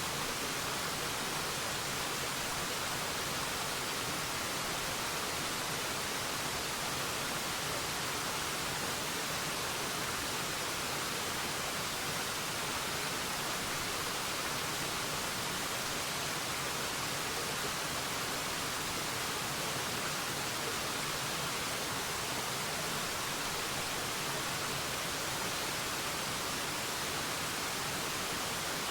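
Waterfall: a steady, unchanging rush of falling water, mostly bright hiss with little low rumble.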